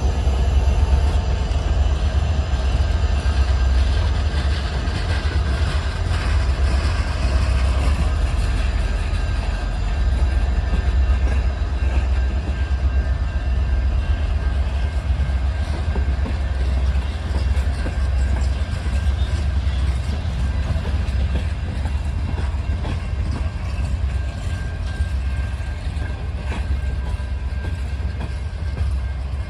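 Alaska Railroad passenger train rolling past, its cars running on the rails with a steady low rumble.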